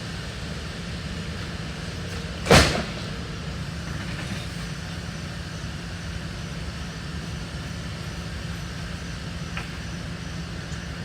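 One loud thud about two and a half seconds in as a heavy piece of maple furniture is dropped while loading a truck, over a steady low rumble.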